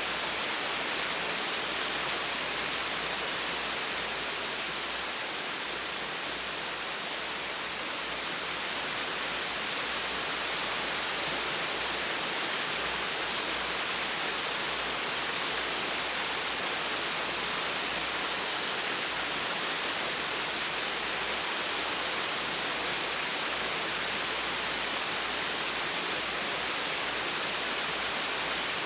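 Gentle waterfall: a steady, even rush of falling and splashing water.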